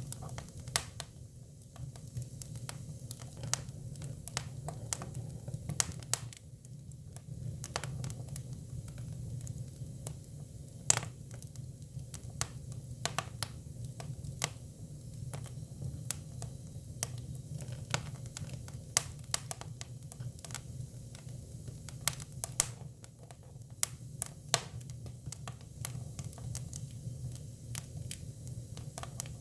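Hinoki cypress firewood burning: irregular crackles and sharp pops over a steady low rumble of the fire, with a few louder snaps.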